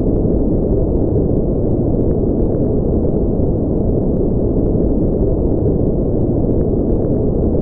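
Steady synthetic noise for sleep, a dense deep rumbling hiss with its weight in the low pitches and no high, bright hiss at all. It is closer to brown noise than to true white noise, even in loudness and unchanging throughout.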